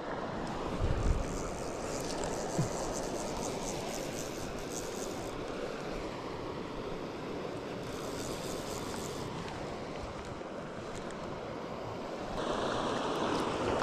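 Steady rush of flowing river water with wind buffeting the microphone, and a light high crackle twice. About twelve seconds in the water noise turns louder and brighter.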